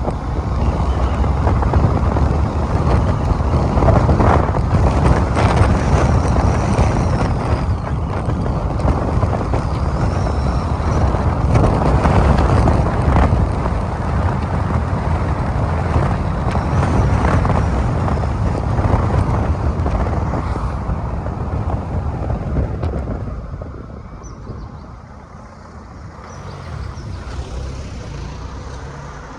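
Car driving along a road: steady engine, tyre and wind noise, which eases off for a few seconds near the end before picking up again.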